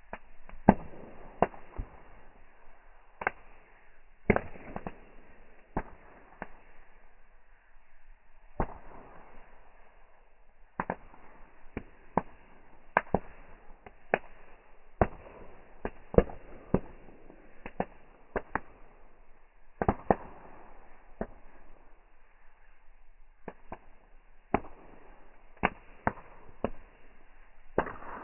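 Wood bonfire crackling: irregular sharp pops and cracks from the burning wood, one or two a second, over a soft hiss of the flames.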